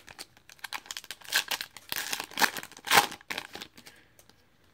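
Foil trading-card pack wrapper being crinkled and torn open, a run of sharp crackles with the loudest rip about three seconds in.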